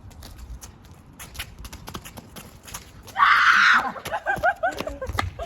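Quick footsteps running outdoors, then a loud high shriek about three seconds in, followed by a few short cries.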